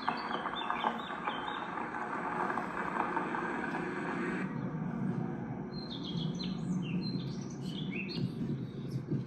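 Small birds chirping in short high calls, heard over a steady hiss that stops suddenly about four and a half seconds in; the chirping picks up again near the end.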